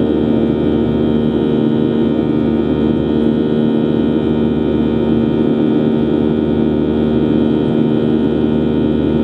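Steady cabin noise of a Boeing 737-800 in flight, heard from a forward window seat: the even rush of its CFM56-7B turbofan engines and airflow with a constant low hum.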